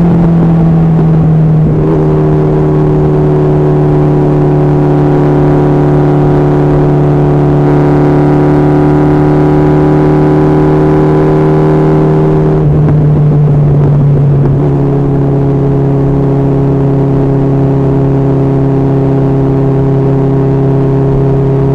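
Honda CB1300SF's inline-four engine running at steady revs on the move, its pitch dropping a little twice, about 13 and 15 seconds in.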